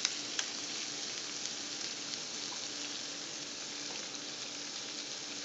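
Chicken thighs and legs frying in hot oil in a pan, a steady crackling sizzle as honey is poured over them, with a couple of sharp pops near the start.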